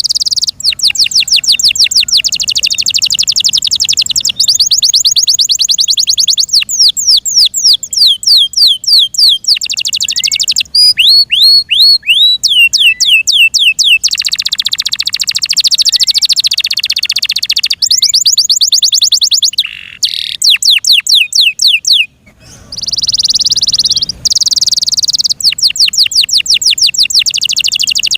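F1 Yorkshire canary singing loudly in long rapid trills, each a fast run of repeated notes, changing from one phrase to the next, with a brief break about three-quarters of the way through.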